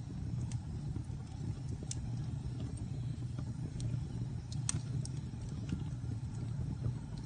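Fire burning in a fireplace: a steady low rumble of the flames with scattered crackles and pops, the sharpest pop about two-thirds of the way through.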